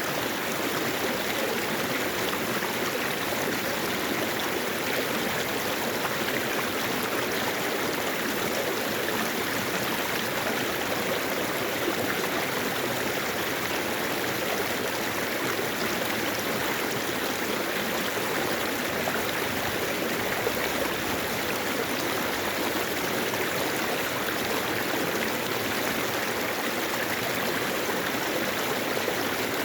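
Mountain valley stream rushing steadily, an even, unbroken sound of flowing water.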